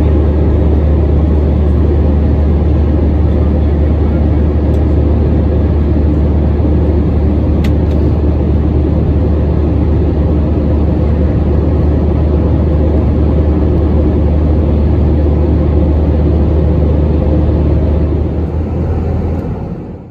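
Airbus A320 jet engines and rushing air heard inside the cabin during the takeoff climb: a steady, loud low drone under a broad roar, fading out near the end.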